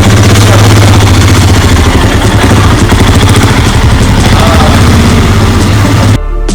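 Royal Enfield Himalayan's 411 cc single-cylinder engine running steadily at idle. It cuts off abruptly near the end, where music begins.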